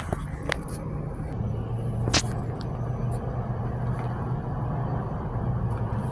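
Medical helicopter running with a steady low rumble, with a few short sharp clicks over it near the start.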